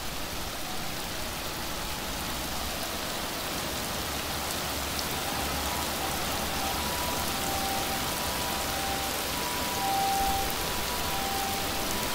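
Heavy rain pouring steadily onto a flooded street, an even hiss of rain on water. From about halfway, a faint two-tone signal repeats, alternating a higher and a lower note.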